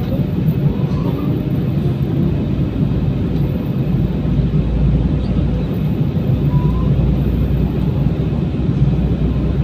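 Airliner cabin noise: the engines and rushing air make a steady, loud low drone, heard from inside the passenger cabin. The deepest part of the drone swells about four seconds in.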